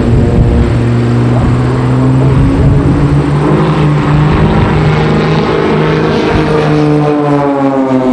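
Two Christen Eagle aerobatic biplanes flying in formation, their propeller engines (boosted well above 300 horsepower) droning loudly. The pitch falls gently in the second half as the planes pass by.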